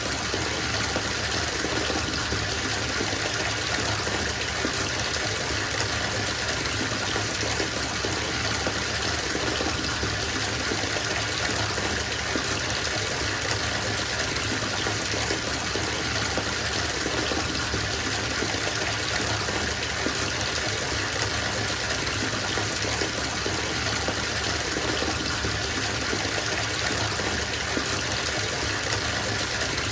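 Water gushing steadily from a bathtub tap into a filling tub, an even rushing splash.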